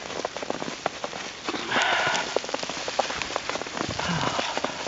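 Footsteps crunching and squeaking in deep fresh snow, with two louder steps about two seconds apart, over a steady patter of small ticks.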